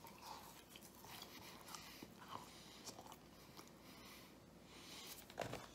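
Faint chewing: a man eating curly fries, with a few soft mouth clicks.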